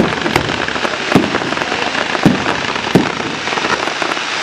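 Fireworks display: a continuous dense crackling, with sharp bangs from shells bursting roughly once a second.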